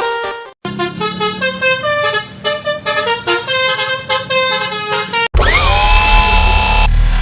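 A multi-tone 'telolet' truck horn plays a quick tune of short notes. About five seconds in it cuts off sharply and a loud motor-like whir takes over, its tone rising quickly and then holding steady over a deep rumble.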